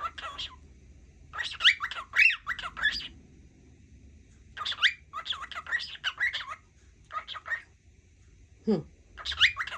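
Cockatiel chattering, talk-like babble mixed with whistles, in several quick bursts of squeaky, rising and falling notes with short pauses between. A single low falling sound comes shortly before the end.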